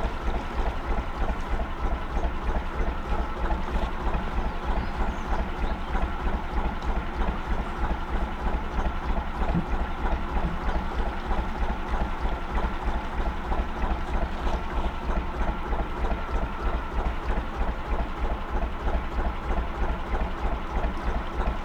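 Gardner 2LW two-cylinder diesel engine of a narrowboat running steadily at low revs, with an even, rapid thumping beat.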